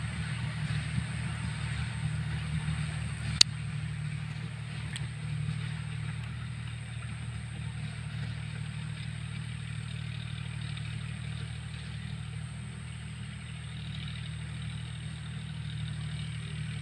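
John Deere tractor engine running steadily, with one sharp click about three and a half seconds in.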